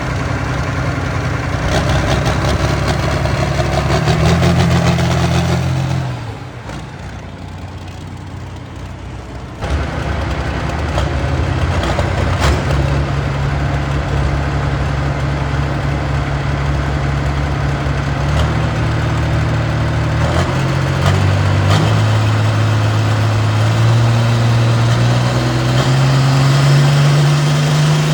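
Pulling tractor's engine running loud under load. It drops to a quieter stretch from about six to nine and a half seconds, then comes back and its pitch steps up a few times as it revs harder.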